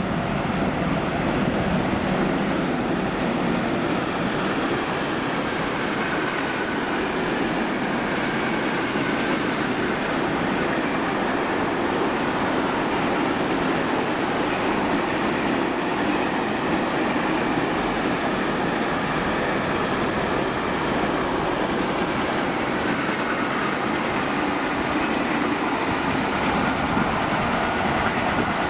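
Container freight train passing at steady speed: the continuous rolling sound of its wagons' wheels on the rails.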